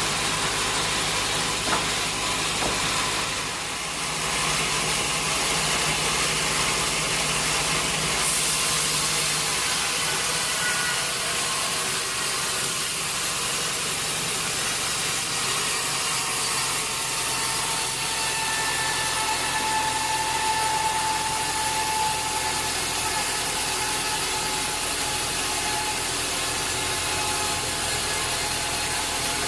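Sawmill machinery running steadily, an engine-driven saw with a constant low hum. A faint higher whine comes in about halfway through.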